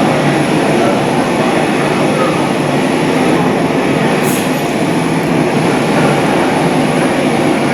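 McDonnell Douglas MD-82's rear-mounted Pratt & Whitney JT8D turbofans running. A loud, steady low roar that holds an even level without rising or falling.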